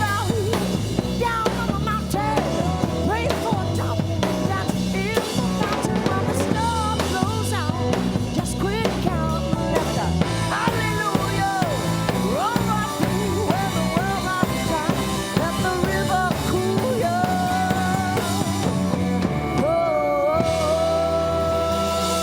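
Instrumental break by a live country-blues rock band: drum kit and bass keep a steady beat under a lead line of bending notes. Near the end the lead settles into long held notes.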